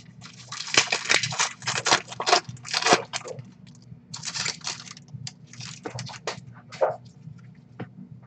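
Baseball card packs and cards being handled: a dense run of crinkling, crackling wrapper and card rustles in the first three seconds, then sparser rustles and light clicks.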